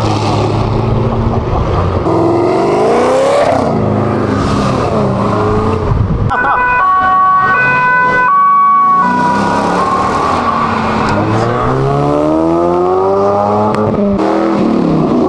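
Several car engines revving hard as cars pull away one after another, their pitch climbing and falling with each rev. In the middle, a stepped, siren-like tone changes pitch a few times for about three seconds.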